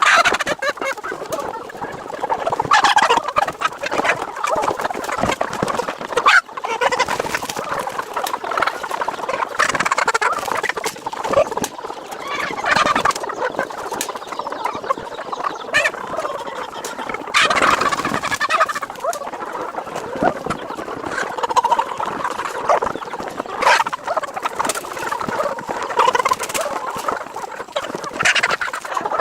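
A crowded flock of chickens clucking and squawking continuously, with louder flurries of calls every few seconds.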